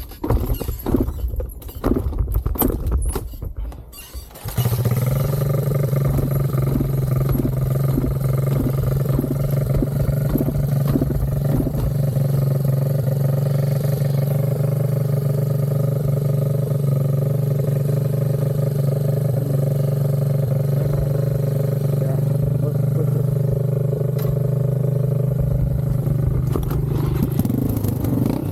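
Irregular knocks and rustling, then about four and a half seconds in a motorcycle engine comes in suddenly and idles steadily at an even pitch.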